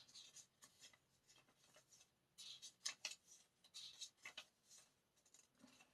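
Faint rustling and light clicks of paper being handled, scattered short strokes, busiest in the middle.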